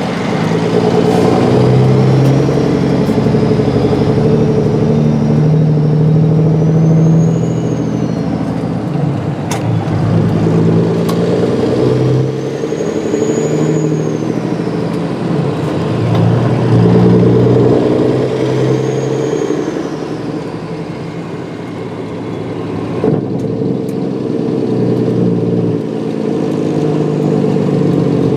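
Peterbilt 389 semi truck's diesel engine pulling through the gears, heard from the cab. The engine note climbs and drops back several times as it shifts, with a high whine rising and falling along with it.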